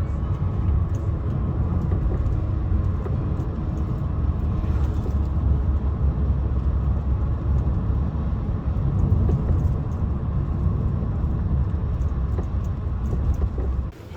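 Steady low rumble of a moving vehicle, like road and engine noise heard from inside, which cuts off sharply just before the end.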